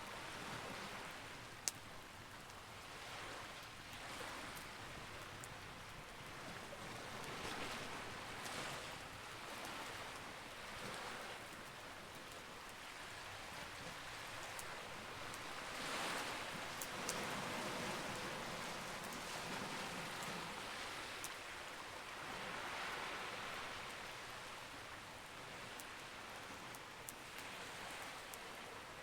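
Campfire crackling with a few sharp pops, over a steady rushing wash that swells and fades every few seconds.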